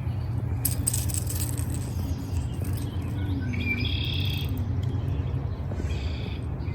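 A bird chirping in two short bursts of high whistled notes, the first about halfway through and the second near the end, over a steady low rumble.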